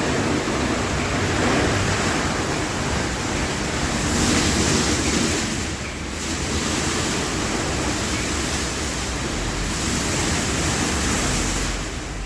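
Automatic car wash in operation: a steady loud rushing noise that swells and eases a few times.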